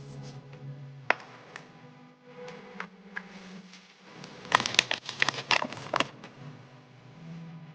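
A run of sharp clicks and taps from small plastic toy parts being handled, densest and loudest around the middle, over soft background music.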